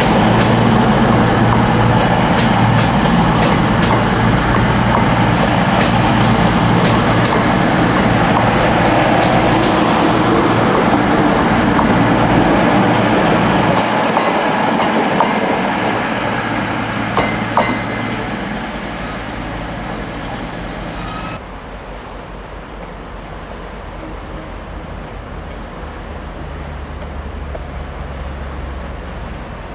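Virgin Voyager diesel multiple unit passing close by, its diesel engines running with a steady hum and its wheels clicking over rail joints; the sound fades as it draws away. About two-thirds through it cuts to a quieter steady rumble of another train approaching from a distance.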